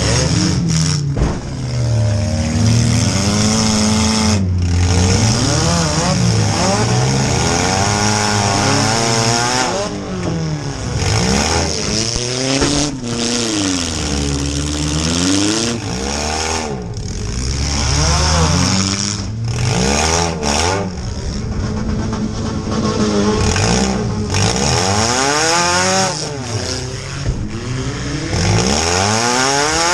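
Compact demolition derby car's engine revving up and down many times as it is driven, heard from inside the stripped cabin, with a few brief dips in level.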